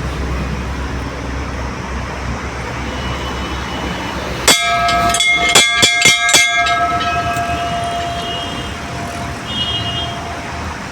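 Metal temple bell struck rapidly about six times, a little before halfway through, then left to ring out, its clear tone fading slowly over several seconds. A steady low rumble of traffic sits under it.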